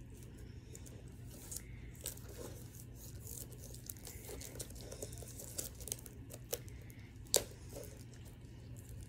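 Plastic shrink-wrap being torn and peeled off a Blu-ray case: faint crinkling and tearing with scattered small clicks, and one sharper snap about seven seconds in.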